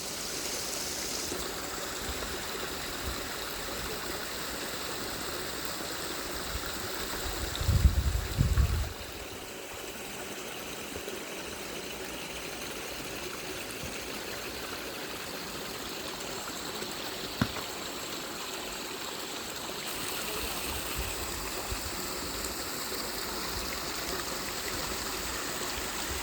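Steady rush of falling water from the Menal waterfall. About eight seconds in, a brief loud low rumble like wind on the microphone, and a single click later on.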